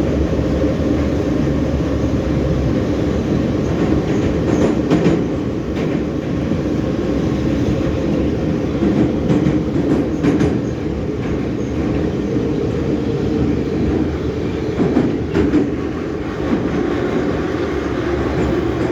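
An EMA-502/EM-501 metro train running through the tunnel, heard from inside the car: a steady loud rumble with a few clicks from the wheels and track.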